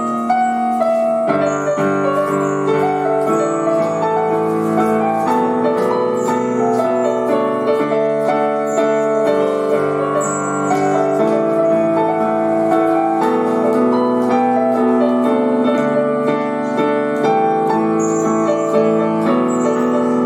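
Piano playing a continuous melody over sustained chords.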